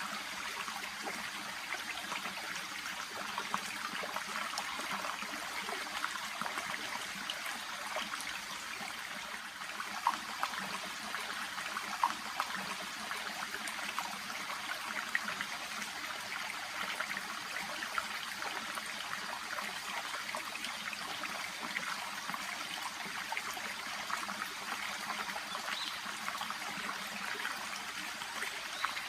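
A shallow brook babbling and trickling steadily, with small splashes flecking the flow and two slightly sharper ones around ten and twelve seconds in.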